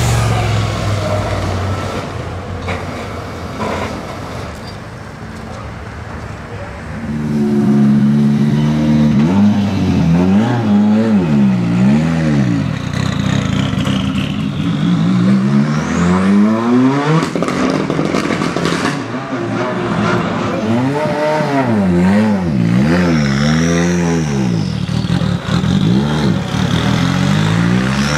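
Race car engine idling low, then from about seven seconds in revved in a long series of throttle blips, its pitch rising and falling about once a second.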